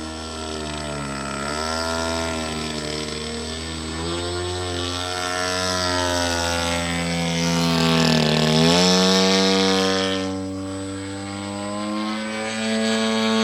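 120cc gasoline engine of a radio-controlled model airplane in flight, its pitch rising and falling. It grows loudest about two-thirds of the way through and drops sharply in pitch as the plane passes by, then climbs again near the end.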